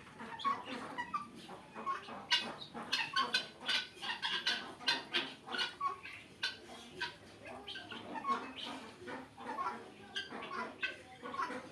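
A flock of guinea fowl calling, many short, harsh calls overlapping in quick succession.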